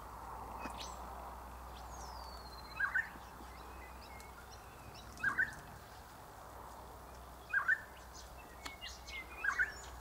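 Birds calling: a short double chirp repeated four times, about every two seconds, with a long falling whistle from another bird about two seconds in and faint high chirps near the end.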